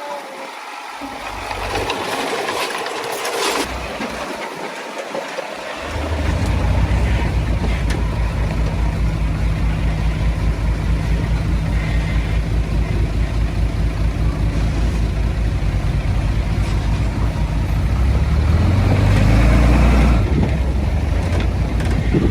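Heavy diesel earthmoving machinery: a few seconds of mixed rattling noise, then from about six seconds in a loud diesel engine running with a steady rapid beat, pulling harder near the end.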